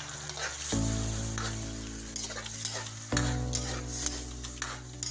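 Tomatoes sizzling as they sauté in a metal wok, stirred with a metal spatula that scrapes and taps the pan. Sustained background music notes play underneath, changing chord about a second in and again about three seconds in.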